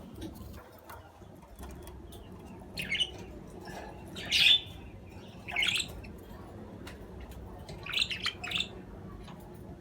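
Budgerigars chirping in short, sharp bursts, with brief squawk-like calls: one about three seconds in, a louder one midway, another near six seconds, and a quick run of chirps near the end, with faint ticking in between.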